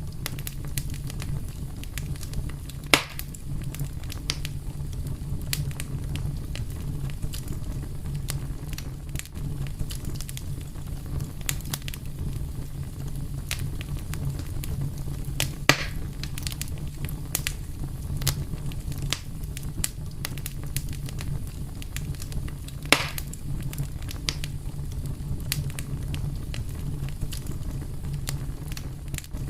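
Wood fire crackling steadily over a low rumble of burning, with many small ticks and three louder pops spread through it.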